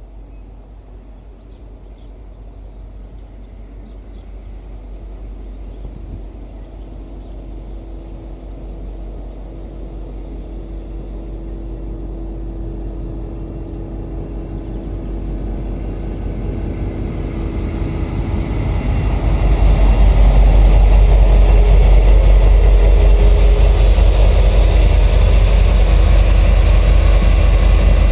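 A diesel train approaching, growing steadily louder for about twenty seconds, then its engine running loud and steady close by.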